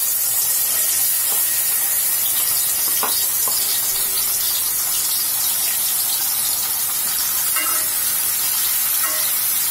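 Onion paste sizzling loudly in hot oil in a metal karahi, a steady hiss, with a few light clicks of a spoon and bowl against the pan.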